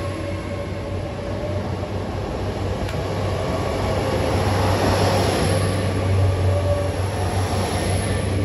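GWR Class 800 bi-mode train pulling away on its underfloor diesel engines as its coaches pass close by: a steady engine hum with wheel and rail noise, growing louder about halfway through.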